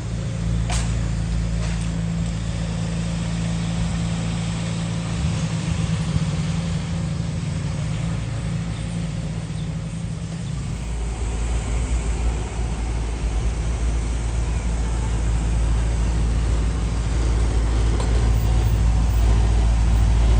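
Motor vehicle engine running steadily with a low hum, its pitch shifting about ten seconds in, over road and traffic noise.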